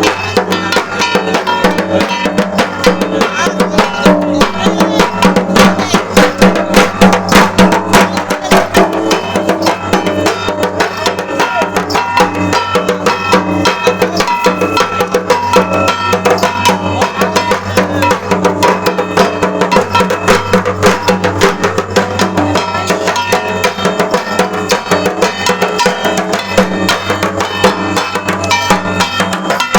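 Fast, continuous drumming with dense strokes, over a steady low drone.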